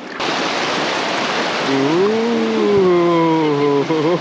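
Rushing whitewater of a river rapid, which comes in suddenly and loud. About halfway through, a rafter lets out one long drawn-out shout whose pitch slowly falls.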